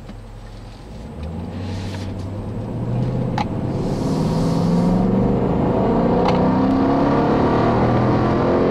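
2012 Dodge Durango R/T's 5.7-litre Hemi V8 accelerating hard, heard from inside the cabin. It is a deep rumble that grows louder about a second in and again about three seconds in, with the pitch climbing as the revs rise.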